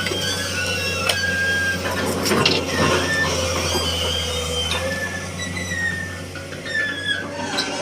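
Excavator working: the engine runs steadily under high hydraulic whines that slide up and down in pitch, with a few sharp knocks, about one, two and a half and near eight seconds in.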